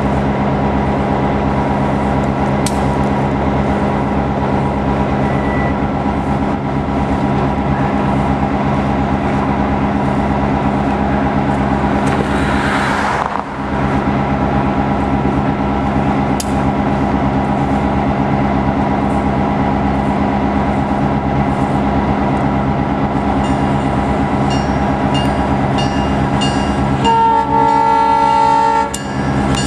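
Diesel locomotive engine running steadily, then a multi-note air horn sounds once for about two seconds near the end.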